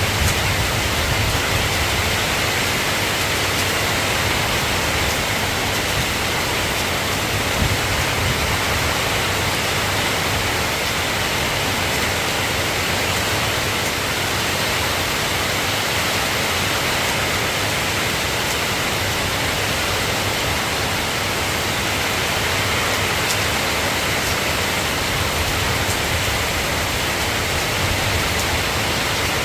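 Steady rain falling, an even hiss that stays the same throughout.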